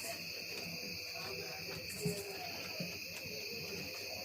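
Night insects chirring in a steady chorus, a continuous high buzz, with a brief, even higher chirp about two seconds in.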